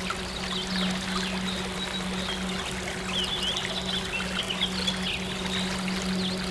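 Running stream water with birds chirping over a steady, low synth drone.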